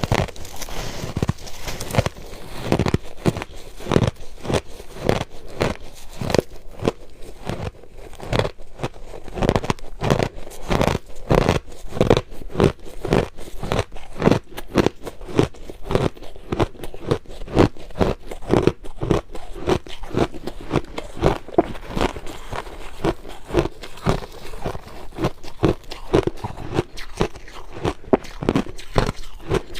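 Crushed ice being chewed: steady, rapid crunching, several crunches a second.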